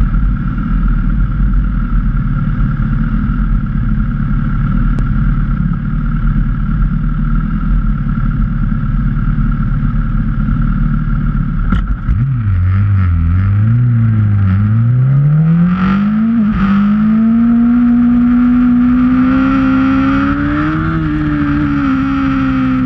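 Sportbike engine idling with a steady low rumble. About halfway through it revs up hard through the gears, its pitch climbing and dropping back at each shift, then holds a high, fairly steady pitch at speed.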